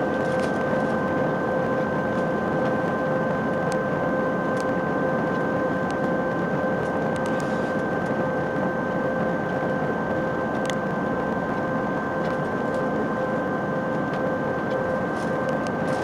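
Steady cabin noise inside an Airbus A319 on the ground: an even rushing hum with constant high whining tones, and a few faint clicks.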